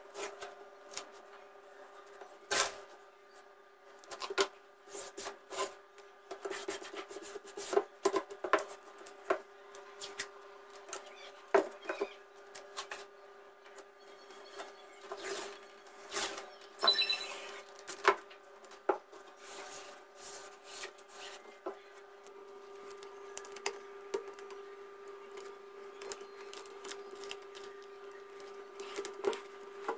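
Irregular hand scraping and rubbing on a car grille, short scrapes and clicks at an uneven pace over a steady hum.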